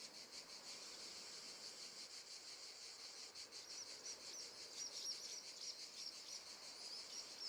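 Faint nature-sound bed of insects chirring steadily, with a small bird giving short rising chirps over and over from about halfway through.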